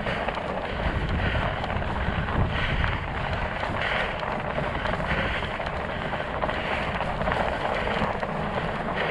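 Wind rushing over the microphone, with the rolling noise of a fat bike's studded tires underneath as it is ridden.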